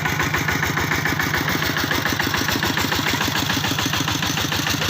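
Engine-driven rice threshing machine running steadily, with a fast even pulse.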